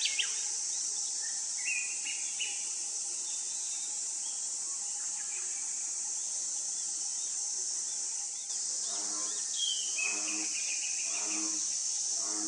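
Steady high drone of calling insects with short bird chirps over it. About two-thirds of the way through, a lower pitched call starts repeating roughly once a second.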